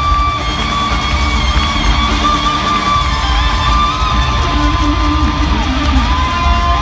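Rock music with an electric guitar holding long, sustained notes that bend in pitch, over a steady full band.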